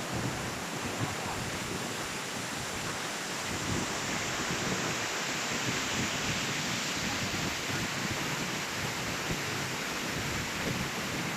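Waterfall: a steady, even rush of falling water, a little louder from about four seconds in.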